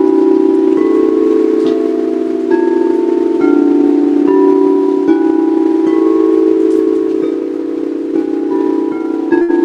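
Several singing bowls ringing together in sustained, overlapping tones, with fresh notes entering every second or so and shorter, higher chime-like notes coming and going above them. A couple of sharp clicks come near the end.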